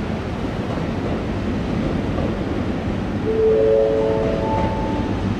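681/683-series limited express electric train pulling away along the platform, a steady low rumble of wheels and running gear. About three seconds in, a brief chord of steady tones sounds over it and fades about a second later.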